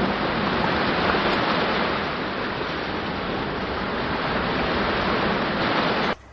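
Recorded rushing water, a steady hiss like a stream or waterfall, which cuts off suddenly near the end.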